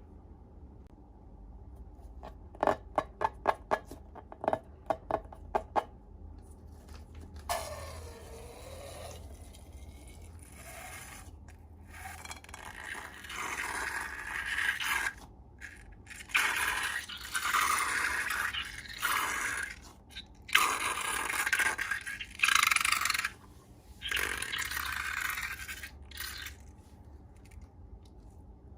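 Slime-making handling sounds: a quick run of about a dozen sharp clicks, then scraping and rubbing in bursts of a second or two with short pauses between them.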